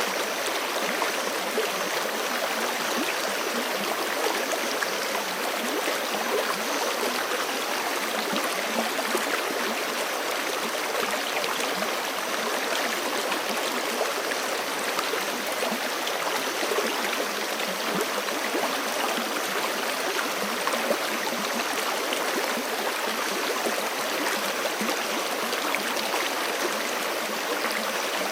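Forest creek running steadily over rocks, a continuous rushing of water with a fine splashing and gurgling texture.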